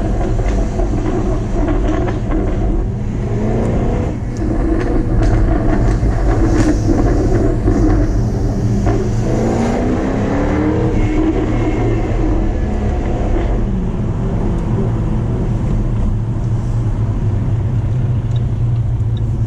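Jaguar F-Type R's supercharged 5.0-litre V8 on its stock exhaust, driving: the revs rise twice, about three seconds in and again around the middle, then the engine settles into a steady low drone.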